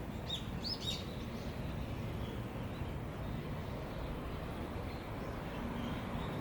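A few short, high bird chirps about a second in, over a steady low outdoor rumble.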